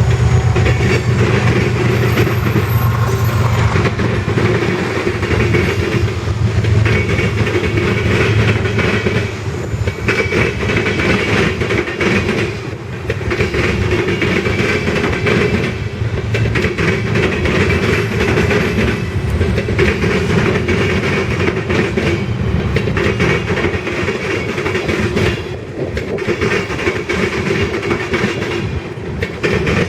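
Freight train cars rolling past at a steady speed, their wheels clacking over the rail joints in a continuous loud rumble. The sound dips briefly about every three seconds as the cars go by.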